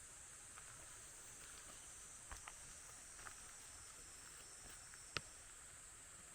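Faint night ambience: a steady high insect drone, such as crickets, with a few short sharp pops, the loudest about five seconds in.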